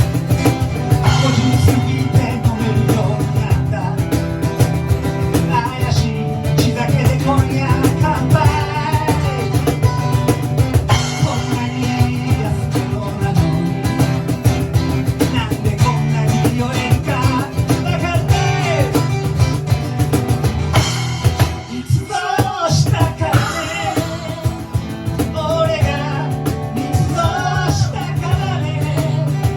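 A band playing rock music, with drum kit, guitar and singing.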